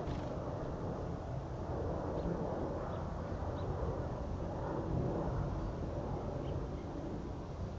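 Steady low outdoor rumble, with a few faint, short bird chirps scattered through it.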